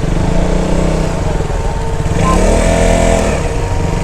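Motorcycle engine running as the bike rides off, its pitch rising and then falling back about two seconds in.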